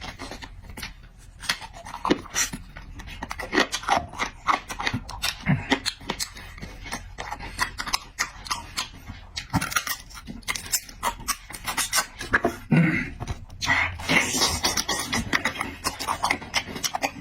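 Close-miked eating: wet chewing and lip-smacking, a dense run of irregular clicks and smacks, with a longer hissing, slurping stretch near the end.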